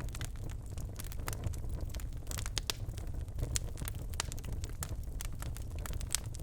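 Birch logs burning in a fireplace: irregular sharp crackles and pops over a low, steady rumble of the flames.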